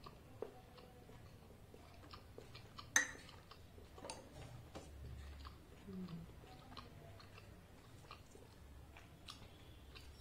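Close-miked chewing of luchi dipped in ghugni: soft, wet mouth sounds with small scattered clicks, and one sharper click about three seconds in.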